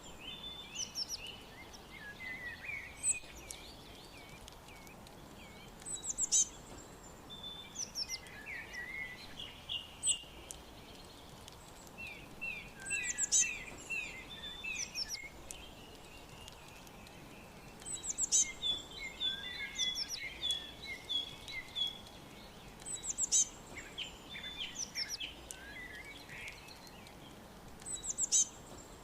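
Songbirds chirping and singing: a high, sharply falling chirp recurs every few seconds, with bouts of quick warbled notes between. A steady faint hiss lies under the calls.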